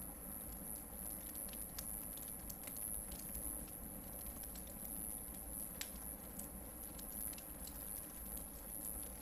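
Hardwood campfire burning, crackling with scattered small pops and one sharper pop about six seconds in.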